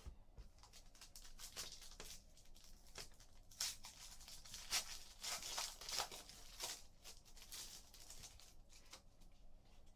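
Trading-card pack wrapper being torn open and crinkled, a faint run of scratchy rips and crackles that is busiest and loudest in the middle.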